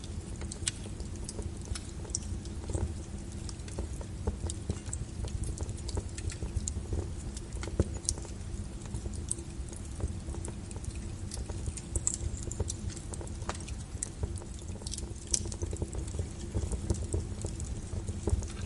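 Wood fire crackling: irregular sharp pops and snaps from burning logs over a low, steady rumble.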